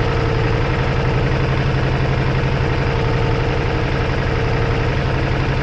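Ducati Multistrada V4S's V4 engine running steadily at an even pitch, loud and without revving.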